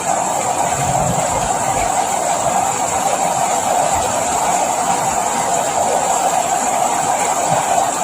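Steady rain sound: an even, continuous hiss with no breaks or changes.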